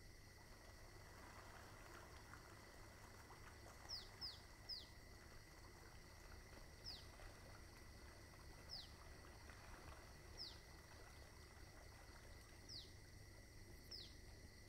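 Near silence with a small bird calling faintly: short, high, down-slurred chirps, three in quick succession about four seconds in, then single chirps every second or two, over a faint steady hum.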